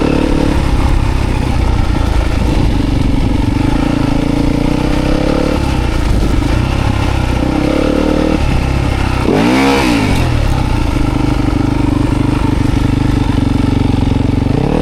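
Dirt bike engine running as the bike is ridden, its note holding steady and shifting between levels, with one quick rev up and back down about nine and a half seconds in.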